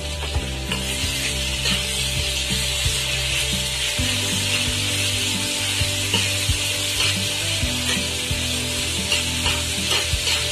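Chopped onions, tomatoes and green chillies sizzling as they fry in oil in a pan, stirred with a cooking utensil that gives scattered clicks and scrapes against the pan.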